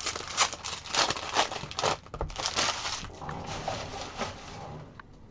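Sports card pack wrappers crinkling and rustling as they are handled and torn open. There is a quick run of crackles for about three seconds, then it dies down to faint handling ticks.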